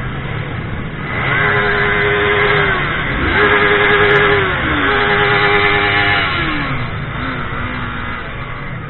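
Motorcycle engine revving up, holding high revs briefly and then dropping, about four times in a row over a steady engine rumble.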